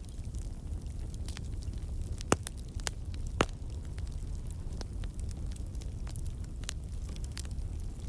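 Wood campfire crackling: scattered sharp pops as moisture and sap in the logs escape as steam, over a steady low rumble. Two pops stand out louder, about two and a half and three and a half seconds in.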